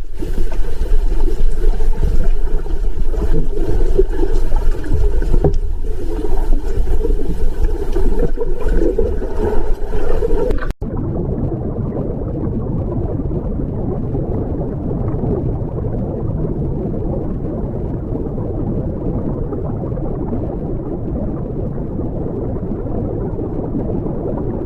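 Steady rushing noise, bright and full for about the first eleven seconds, then changing suddenly to a duller, muffled rush.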